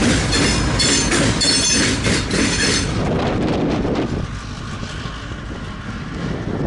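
Freight train cars rolling past, wheels clacking over rail joints with a high wheel squeal. The noise drops off sharply about three seconds in, leaving a quieter rumble.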